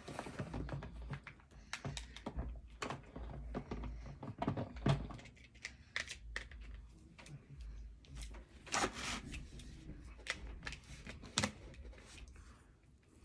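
Irregular light clicks and knocks of toy vehicles and a toothbrush against a container as the toys are scrubbed.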